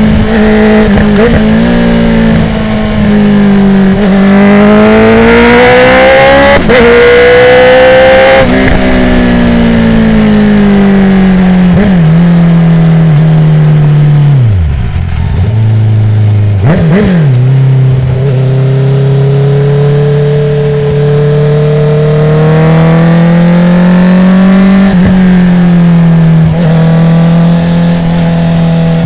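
Honda CB650R's inline-four running loud through an open Akrapovic titanium full exhaust with no dB killer, heard from on the bike. It revs up through the first several seconds with a brief cut near 6.5 s as the quickshifter changes up. It then winds down, jumps sharply on two downshift blips about halfway, and settles to a steady cruise, with a few short pops.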